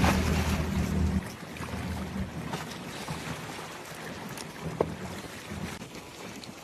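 Ambience aboard a small boat: wind buffeting the microphone over a low steady rumble that drops away about a second in, leaving a quieter windy hiss with a few faint knocks.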